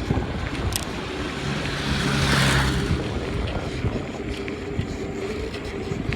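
Wind rushing over the microphone of a camera on a moving bicycle, with a louder whooshing swell about two seconds in.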